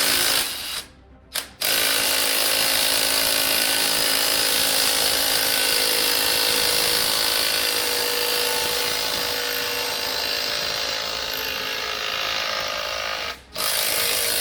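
DeWalt drill driving a rotating engine stand's gear drive, turning a 7.3 diesel engine over on the stand. The drill runs steadily, stops briefly about a second in, then runs again until a short stop near the end.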